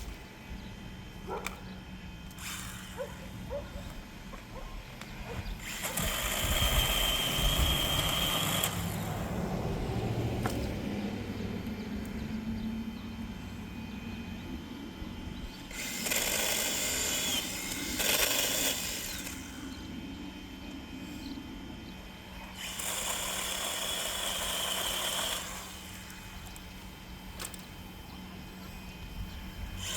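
Electric chainsaw running in three bursts of a few seconds each, with its motor's steady high whine.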